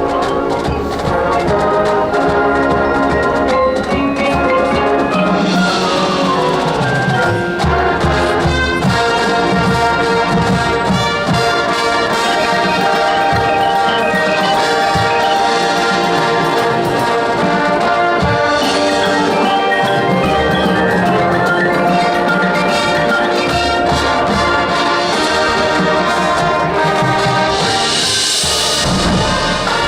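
High school marching band playing: brass holding full chords over drums, with a falling line in the brass about six seconds in and cymbal crashes several times, the biggest near the end.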